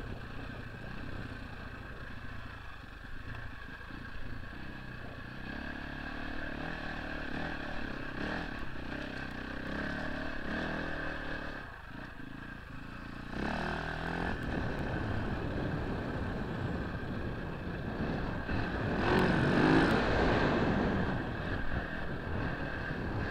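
Husaberg 450 FE single-cylinder four-stroke enduro engine running under way, its pitch rising and falling with the throttle, with a louder rev-up about three-quarters of the way through.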